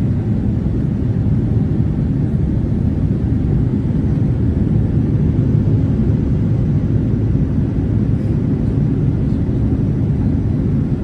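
Steady low rumble of an airliner's engines and rushing air, heard inside the passenger cabin in flight.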